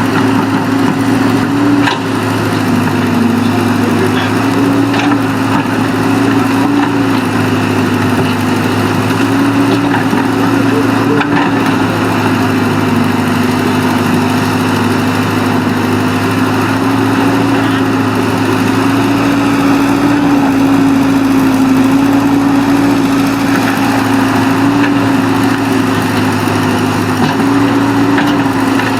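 Excavator's diesel engine running steadily under work, its pitch wavering slightly up and down.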